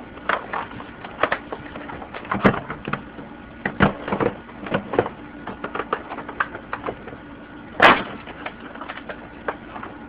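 Irregular plastic clicks and knocks as the dirt cup of a Hoover WindTunnel upright vacuum is worked up and into place on the body, with one louder knock about eight seconds in.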